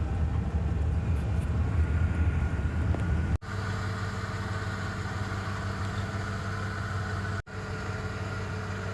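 Vehicle engine idling steadily, a low even hum, cut off abruptly for an instant twice, about three and a half and seven and a half seconds in.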